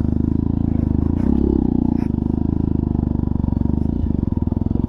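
Jawa motorcycle's single-cylinder engine pulling under load in a low gear up a steep, loose dirt slope, a steady fast exhaust beat with a brief rise in revs about a second in.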